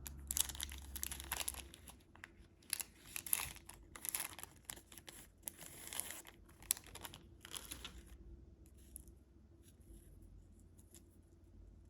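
Candy wrapper being torn open and crinkled by hand: dense crackling and tearing for most of the first eight seconds, then only a few faint crinkles and clicks.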